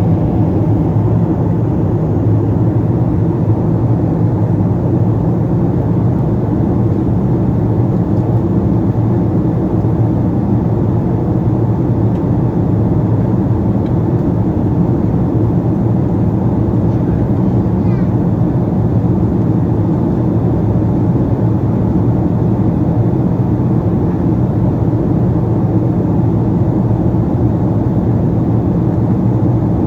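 Steady in-flight cabin drone of a Boeing 777-200: engine and airflow noise making an even low rumble that does not change.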